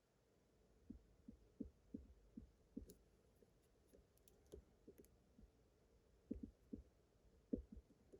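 Faint, irregular soft taps and light clicks of a lock pick probing the pins of a pin-tumbler challenge lock, single-pin picking with tension held.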